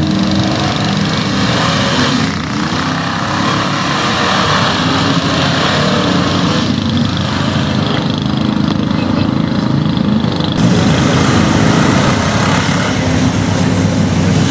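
Chevy mega truck's big engine running hard, its revs rising and falling several times as the throttle is worked.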